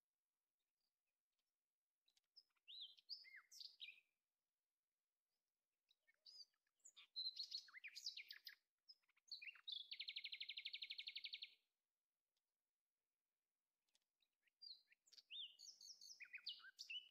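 Birds chirping in several short spells of quick up-and-down notes separated by quiet, one of them a rapid buzzy trill lasting about a second and a half.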